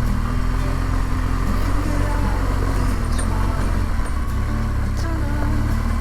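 Adventure motorcycle engine running steadily while riding, a low even drone.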